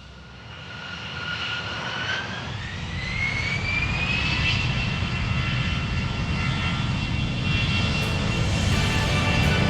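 Turbofan engines of an Antonov An-178 jet spooling up: a whine rises in pitch over a rushing roar, growing louder, then holds at a steady pitch from about four seconds in.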